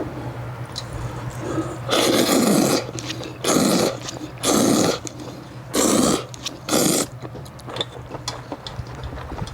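A person eating cold noodles: five loud slurps, each under a second, over a steady low hum.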